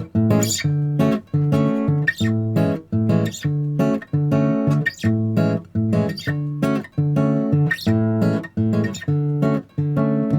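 Background music: a bossa nova track with acoustic guitar playing chords in a steady, even rhythm.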